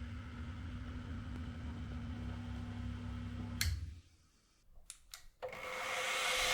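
Low steady hum that ends with a click, then a short hush with a couple of clicks. Near the end a power tool's motor starts and spins up, its whirring hiss rising steadily in level.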